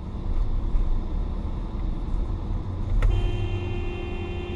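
Steady low rumble of a car driving on the road. About three seconds in, a sharp click, then a car horn sounding one steady, held note.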